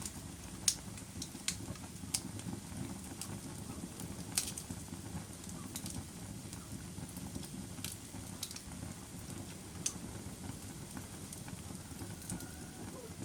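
Wood fire burning in a fireplace: a steady low rumble with scattered sharp crackles and pops, about a dozen, irregularly spaced.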